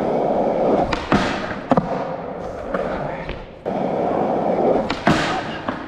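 Skateboard wheels rolling on concrete, broken by sharp clacks and slaps of the board about a second in and again near the end, as tricks are popped and landed.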